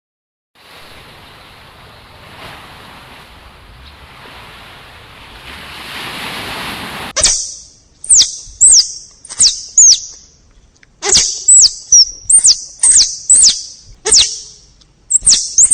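A small bird calling: about a dozen short, high chirps, each sliding down in pitch, coming every half second to a second. Before the chirps start there is several seconds of steady hiss that grows louder.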